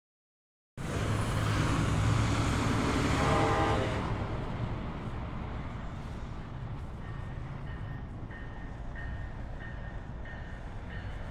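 NJ Transit train running through the station, loudest in the first few seconds with a low drone and rumble, then easing off. From about six seconds in, a faint high tone repeats about every two thirds of a second.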